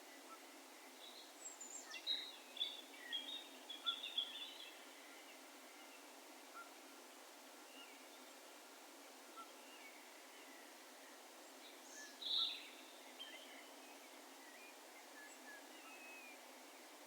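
Faint, distant birds calling over a steady low hiss of open-air background: a cluster of high chirps and trills in the first few seconds, a single louder call about twelve seconds in, and scattered faint chirps between.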